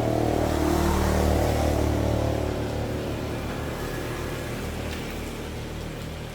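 Small motorcycle engine revving briefly, loudest about a second in, then dropping back to an uneven, pulsing idle.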